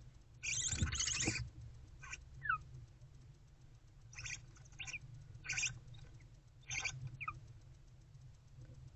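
Barn owlets in the nest box giving hissing, rasping begging calls. One long hiss of about a second comes near the start, then shorter hisses every second or so, mixed with a few brief high chirps.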